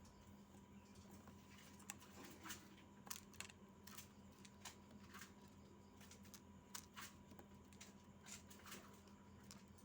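Near silence with faint, irregular clicks and rustles scattered throughout, over a steady low hum.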